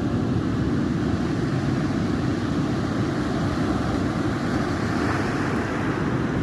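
Sea waves washing onto a beach, a steady low rumbling surf with no breaks.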